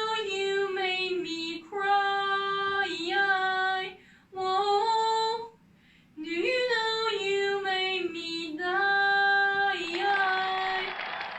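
A woman singing unaccompanied, two phrases of held, sliding notes with a short break between them.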